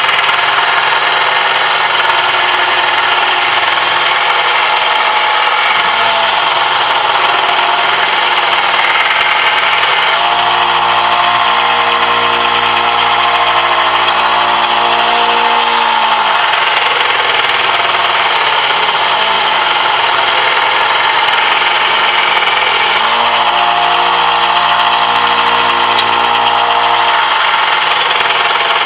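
Electric power tool running continuously with a loud, steady hiss. A humming motor tone comes in twice for a few seconds, once midway and again near the end.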